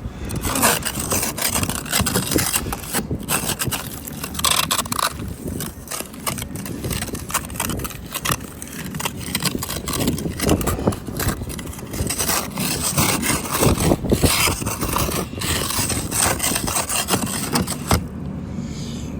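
Snow and ice being scraped off a car's frozen bodywork and glass in irregular strokes, with gusty wind buffeting the microphone.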